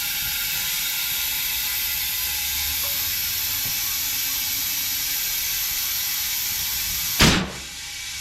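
Compressed air hissing steadily, then a single sharp blast from a Cheetah bead seeder about seven seconds in, as air is shot into a truck tire to seat its bead.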